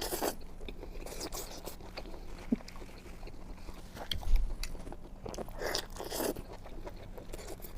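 Close-miked eating sounds: chewing, with a few short sharp bites near the start and twice around six seconds in. A brief low thump comes a little after four seconds.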